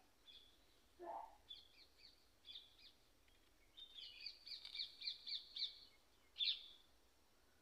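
Faint birdsong: scattered high chirps, a fast run of repeated notes about four seconds in, and a louder call near the end, with one lower call about a second in.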